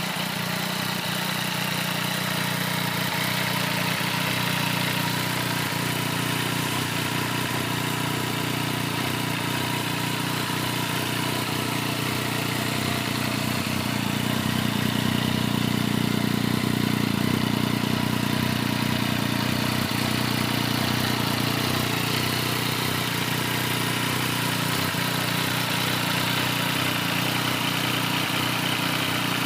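Yamaha MT-09's inline three-cylinder engine idling steadily through an OVER Racing TT-Formula titanium 3-into-1 full exhaust, a little louder for a few seconds about halfway through.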